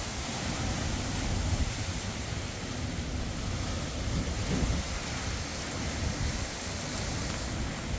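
Wind buffeting the microphone outdoors: a steady noise, heaviest at the low end.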